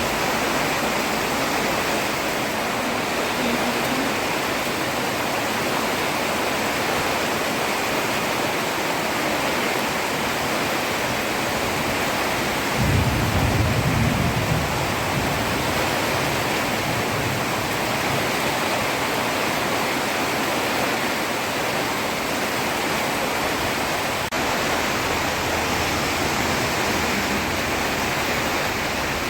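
Heavy rain falling steadily, a dense even hiss. About halfway through, a brief low rumble rises over it for a couple of seconds.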